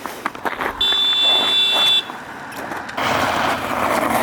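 A high, steady electronic beep lasting about a second. About three seconds in, a vehicle starts to be heard running with a loud rushing noise.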